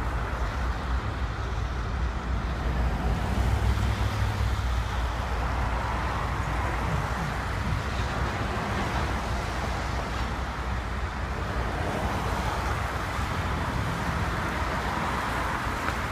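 Double-stack intermodal container train rolling steadily across a railroad overpass, its wheels and cars making a continuous rumble, mixed with cars driving along the street beneath.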